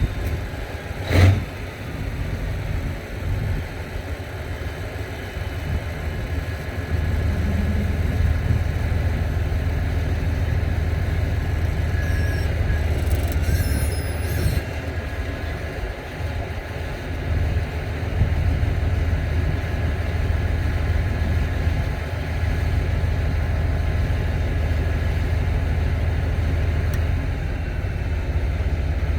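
Cat D9L bulldozer's diesel engine running steadily under load as a low drone that gets stronger about seven seconds in. There is one sharp knock about a second in.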